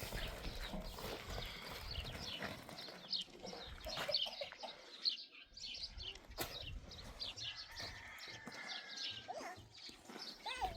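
Birds chirping in many short, high calls, with a few sharp knocks in between.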